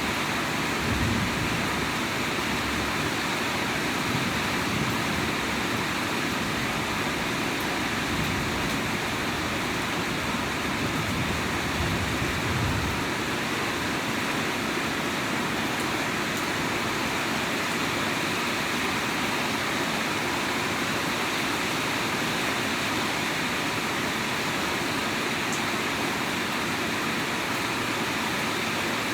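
Steady rain, an even hiss with no break, with low rumbles coming and going in the first half.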